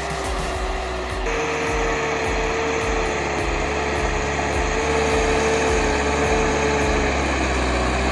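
John Deere 310J backhoe loader's diesel engine running steadily with a steady whine from its hydraulics. The engine note steps up and gets louder about a second in, as if working under more load.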